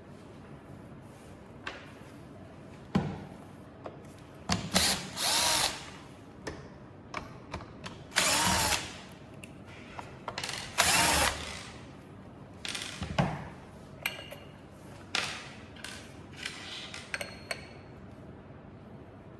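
Power screwdriver running in about three short bursts of roughly a second each, undoing screws during disassembly of a belt sander's housing, with small clicks and clinks of screws, parts and tools between the bursts.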